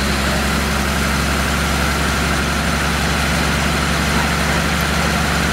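Lycoming V-12 engine of a 1936 Duesenberg Gentleman's Speedster prototype idling steadily.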